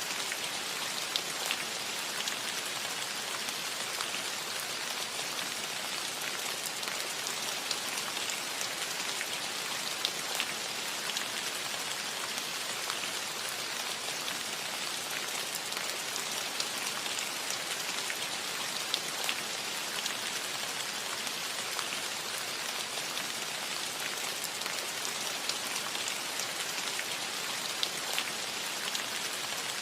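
Steady rain pattering on a metal roof: an even hiss dotted with many small, sharp drop ticks.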